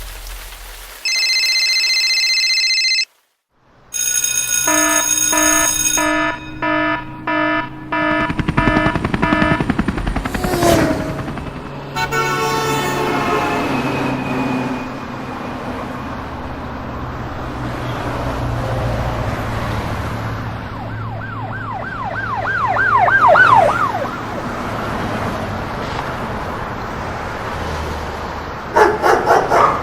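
A run of separate sound clips: a steady electronic beep, then a tone pulsing about twice a second, then road traffic hum with a fast-wavering siren about two thirds of the way in.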